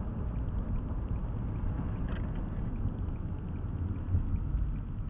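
Steady low rumble of a car driving, with road and engine noise heard inside the car's cabin.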